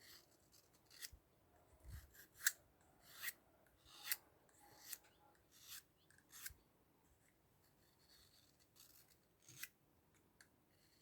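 Victorinox pocketknife blade drawn across a handheld knife sharpener: faint short scraping strokes, about one a second, with a pause about seven seconds in.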